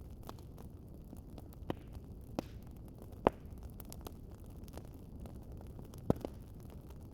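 Wood fire crackling: a steady low rumble of burning with scattered sharp pops, the loudest a little under halfway through and two in quick succession near the end.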